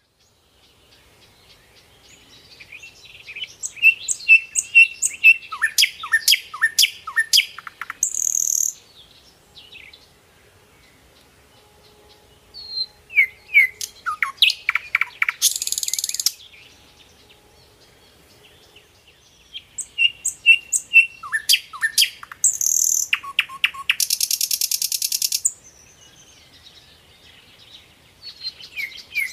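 Songbird chirping in phrases of rapid, falling chirps that end in a short buzzy rattle; the phrase repeats about every eight to nine seconds with quiet gaps between.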